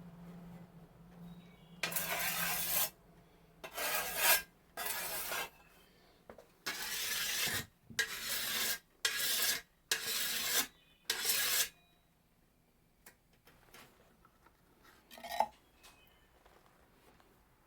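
Steel scythe blade edge being sharpened: about eight long scraping strokes of an abrasive tool along the edge, then a pause and one short scrape near the end.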